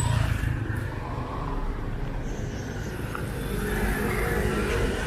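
Street traffic: cars and motorcycles running close by, their engines a steady low rumble that grows louder near the end as traffic passes.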